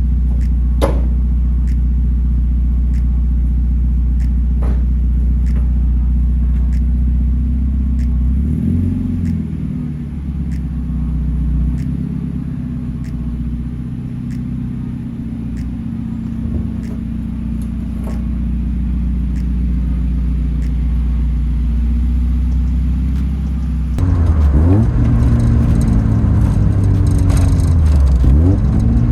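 1992 Mazda Miata's 1.6-litre four-cylinder engine running through a newly fitted ISR aftermarket exhaust: a steady idle, with the note shifting about eight seconds in. About 24 seconds in it becomes louder, its pitch rising and falling with the revs.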